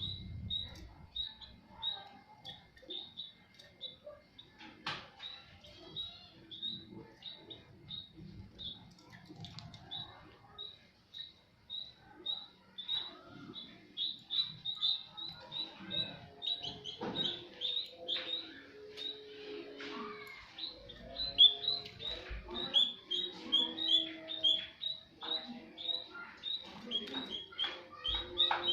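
White-headed munia giving short, high chirps over and over, about two a second.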